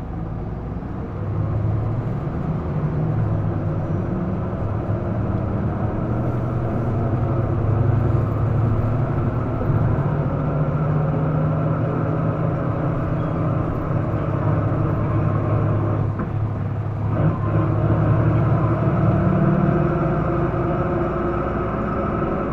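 Isuzu Erga PDG-LV234L2 city bus's diesel engine running under way, heard from inside the cabin as a steady drone that rises and falls a little in pitch, with a short change in the engine note about three-quarters of the way through. The uploader notes this bus makes an unusual noise it did not have when new.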